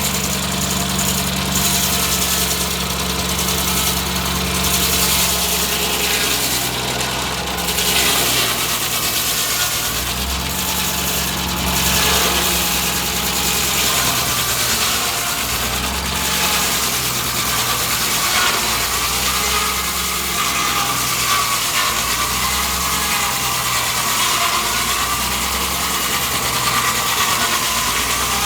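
Foley Belsaw M-14 circle sawmill running under engine power, with its new 48-inch blade spinning free, no wood being cut. The blade is being run up in the hope that speed will steady its wobble. The engine's pitch shifts a few times, and a wavering whine rises over the mill's mechanical clatter in the second half.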